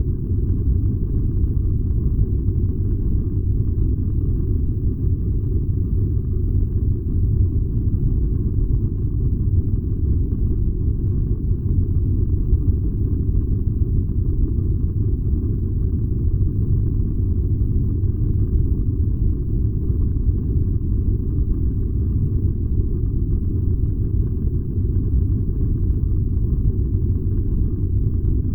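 Furnace burning with a steady, deep, even rumble that never changes.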